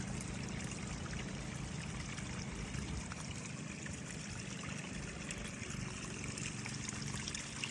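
Water trickling and running steadily, an even flow with no breaks.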